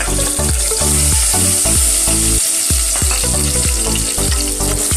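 Cubed potatoes sizzling as they go into hot oil with cumin seeds and curry leaves, under background music with a steady beat.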